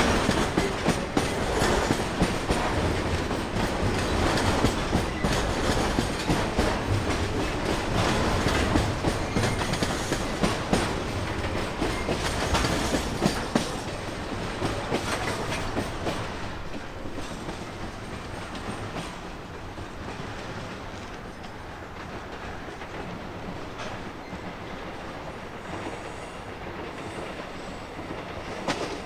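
Freight wagons of a long train rolling past, the wheels clacking steadily over the rail joints. The sound is loudest for the first half and fades gradually as the train draws away.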